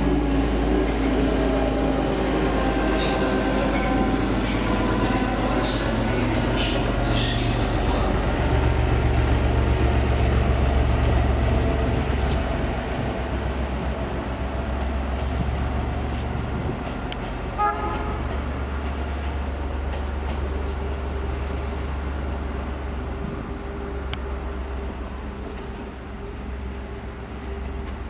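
Passenger train pulling out and running away around a curve, a steady rumble with a low hum and, in the first several seconds, tones that rise and fall. A single short horn toot sounds a little past halfway.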